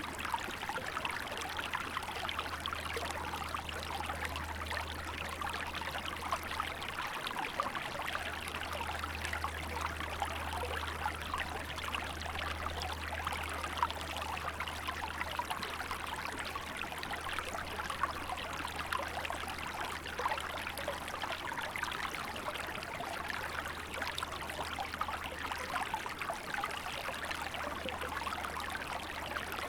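Small river flowing and babbling over stones in winter, a steady rush of water full of small splashes and trickles. A steady low rumble runs underneath.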